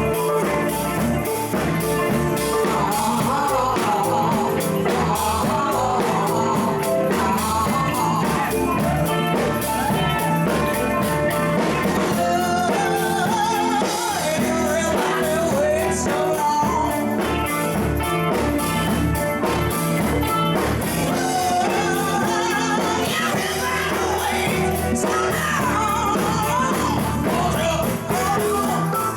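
Live rock-and-roll band jamming, with a singer's voice over guitar and a steady beat.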